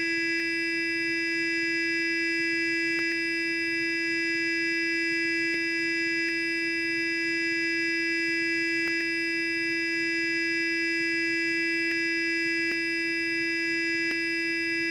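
Electric sonic toothbrush running continuously: a steady, even buzzing hum at one pitch, with a few faint ticks here and there.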